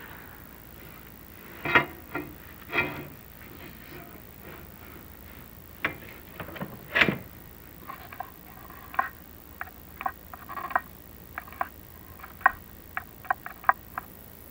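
Inspection camera and its push rod being fed down a clay-tile chimney flue: irregular knocks and scrapes, then a quicker run of short sharp clicks with a brief ring from about eight seconds in, as the camera head taps against the flue tiles.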